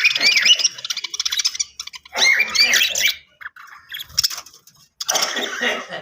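Budgerigars chirping and chattering in three bursts of quick warbling calls, with short pauses between them.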